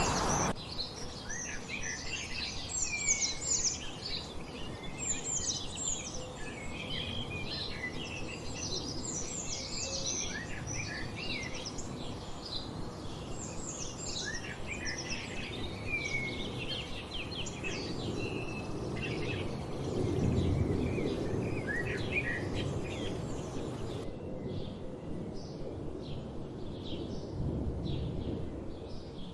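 A chorus of wild songbirds, many chirping and singing at once in quick, high chirps and short trills over a low background rumble. Near the end the chirping becomes sparser and fainter.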